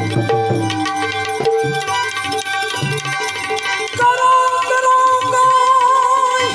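Indian devotional folk music: tabla playing a quick run of strokes over steady held accompaniment tones. About four seconds in, a long wavering held note joins the music.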